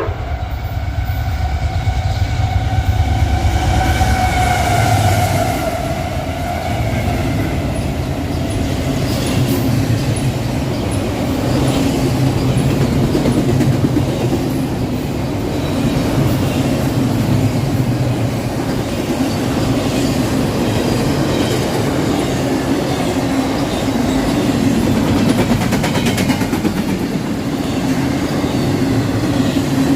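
A train passing close by. Its horn sounds a chord for the first several seconds and drops in pitch as it goes by, then the steady rumble and clatter of the train's wheels on the rails carry on.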